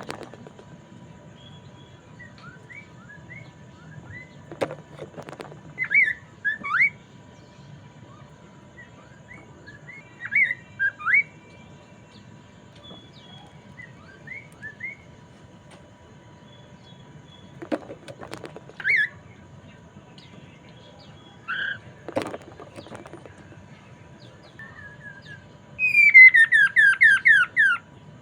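Poksay mandarin (a laughingthrush) singing: scattered short whistled chirps with a few knocks between them. Near the end comes a fast run of about ten falling whistled notes, the loudest part. A faint steady tone lies underneath.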